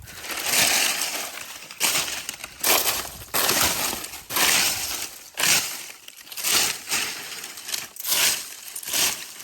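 Dry leaf litter crackling and crunching in repeated bursts, about one a second.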